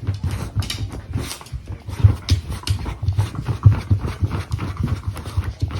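A beagle digging frantically at her bed with her front paws: a fast, irregular run of scratching thumps on the bedding, with some panting.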